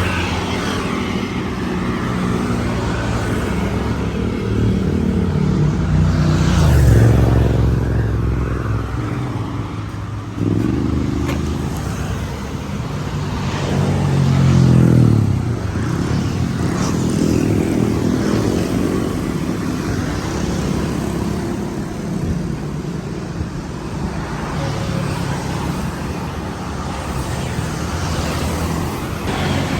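Road traffic of cars and motorbikes going by, engines running steadily with two louder passes where the engine pitch swells and drops, about a quarter and half way through.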